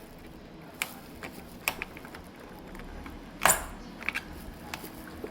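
A few sharp clicks and knocks from handling a window screen frame, with a louder knock and short scrape about three and a half seconds in.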